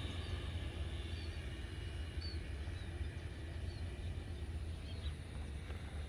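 Steady low rumble with faint, short, high chirps of a small bird repeating every half second or so.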